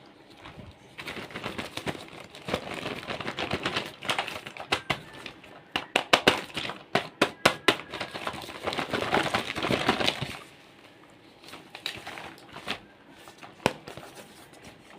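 Crinkling and crackling handling noise with many sharp clicks, busiest from about one second in until about ten seconds in, then only scattered clicks.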